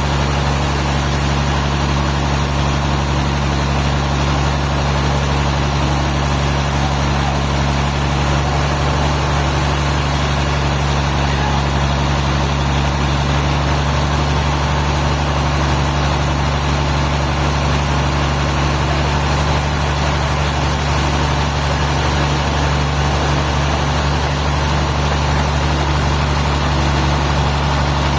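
Engine of sawmill machinery running steadily at a constant speed, a low, unchanging drone.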